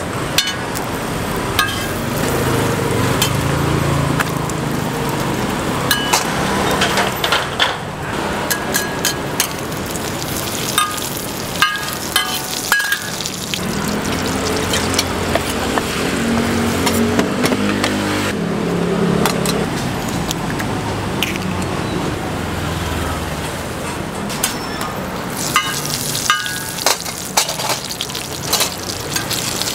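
Roti frying in oil on a flat pan, sizzling steadily, with sharp clinks and scrapes of a metal spatula and wooden paddle against the pan and knife taps on a wooden cutting board.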